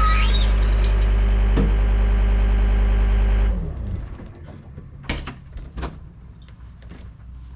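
John Deere 326D skid steer's diesel engine running steadily, then shut off about three and a half seconds in and winding down. A few sharp clicks and knocks follow.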